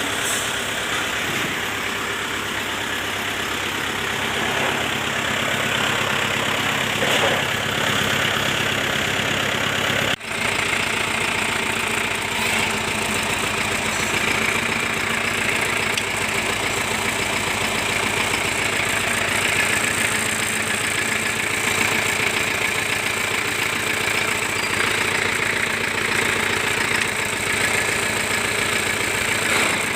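Shibaura SD4000 tractor's diesel engine running steadily at idle, with a brief break about ten seconds in.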